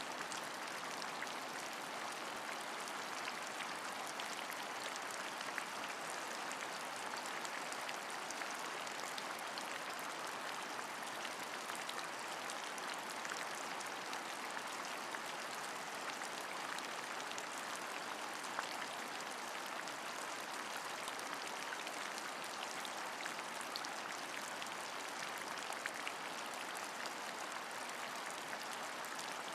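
Steady rain falling: an even hiss with scattered small ticks of individual drops.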